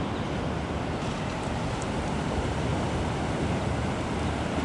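Ocean surf washing on the beach, a steady wash of noise, with wind buffeting the microphone.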